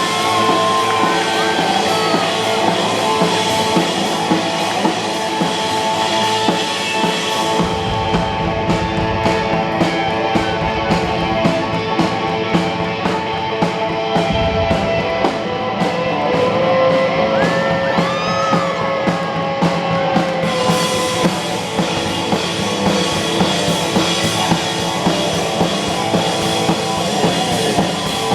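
A live rock band plays an instrumental passage with drum kit and guitar, including bending guitar notes. About a quarter of the way in the cymbals drop out and a deep bass comes in; the cymbals return about three-quarters through.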